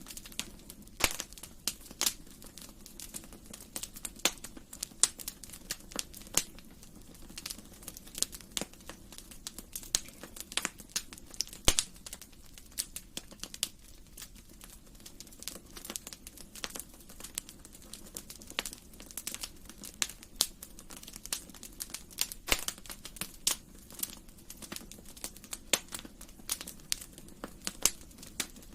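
Wood fire crackling in a fireplace: irregular sharp pops and snaps, many a second, some louder than others, over a low steady rumble of the flames.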